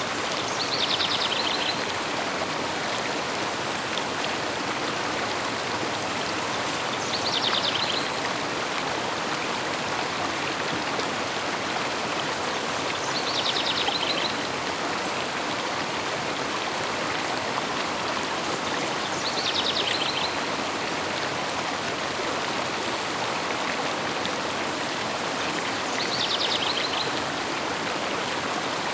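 Steady rushing of a flowing river. A bird's short, high trill comes five times at even spacing, about every six seconds, the same phrase each time.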